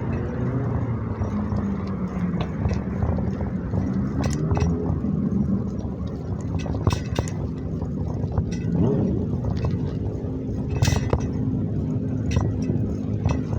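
A motor vehicle's engine runs under a steady rumble, its pitch slowly rising and falling, with scattered clicks and knocks.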